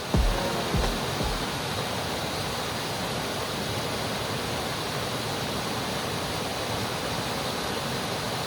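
Waterfall rushing close by, a steady, even roar of falling water.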